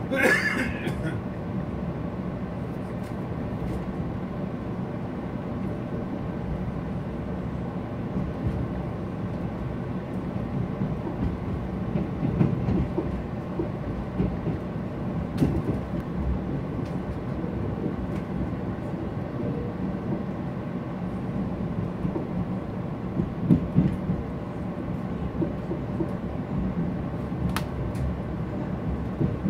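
Passenger train running on the rails: a steady low rumble with a few scattered clicks, and a short high squeal right at the start.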